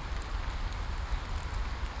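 Steady rain falling, an even hiss with scattered sharp ticks of individual drops over a low rumble.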